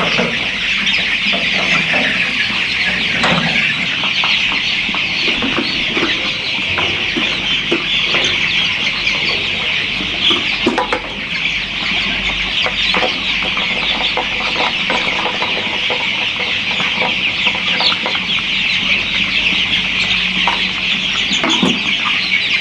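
A flock of chickens clucking and calling continuously, many birds at once with their calls overlapping into a steady din.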